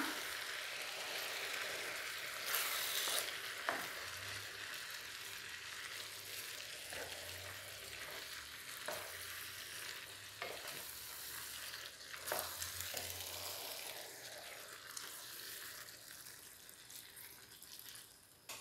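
Ground-beef and vegetable tomato sauce sizzling in an electric skillet while a wooden spoon stirs it, scraping and knocking against the pan now and then. The sizzle gets quieter over the last couple of seconds.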